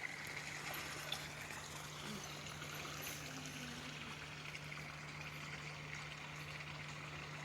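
A stream running steadily, a soft even trickle of water, with a faint steady low hum underneath.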